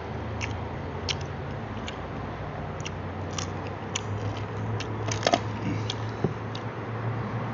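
Biting and crunchy chewing of deep-fried chicken feet: short crisp cracks every half second or so, with a louder cluster of bites about five seconds in, over a steady low hum.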